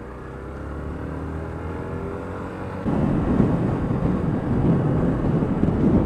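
Yamaha YBR125 single-cylinder four-stroke motorcycle engine running, its pitch slowly rising as it pulls. About three seconds in, a louder, rough rushing noise cuts in suddenly and covers the rest.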